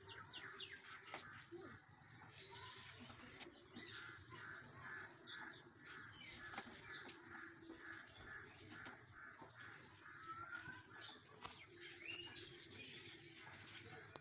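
Faint birdsong in the background: one bird repeats a short chirp about twice a second through the middle, with other scattered chirps around it.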